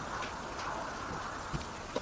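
Low steady background noise with two faint, short knocks near the end.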